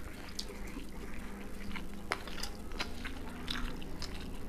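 Two people chewing mouthfuls of chicken biryani and working the rice by hand, picked up close by a clip-on microphone: irregular soft smacks and clicks, several a second.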